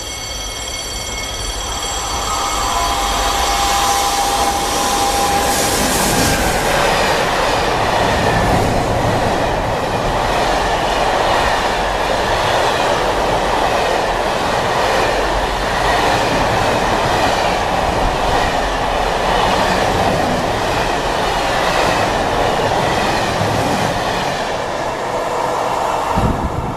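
Class 186 TRAXX electric locomotive passing with a whine of several steady tones over the first few seconds, then a long intermodal freight train of container wagons rolling past: a steady rushing rumble of wheels on rail with clatter.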